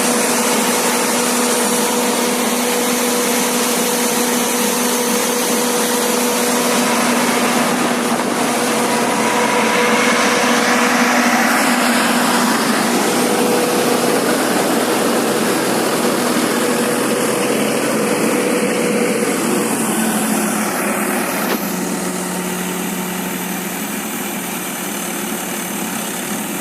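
Diesel engine of a guardrail pile driver running steadily under hydraulic load, a loud even drone. Its note shifts about three-quarters of the way through and it gets a little quieter near the end.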